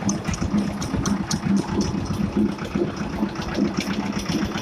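Escort 335 tractor's diesel engine running steadily with a rapid pulsing chug, with light rattling clicks over it.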